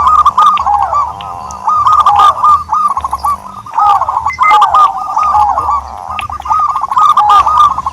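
A turtledove cooing in quick phrases of short rising-and-falling notes, repeated over and over with brief pauses between phrases.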